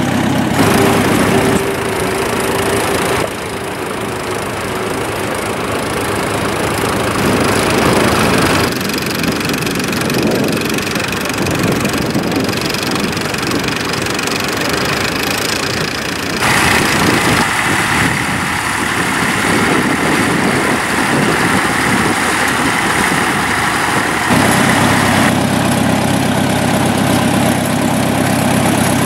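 Vintage tractor engines running, heard in several takes whose sound changes abruptly every few seconds.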